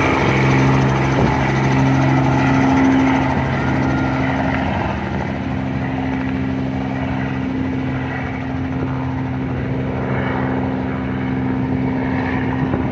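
Helicopter taking off: the engine and rotor make a steady drone with a fast rotor-blade chop, easing a little quieter after about five seconds.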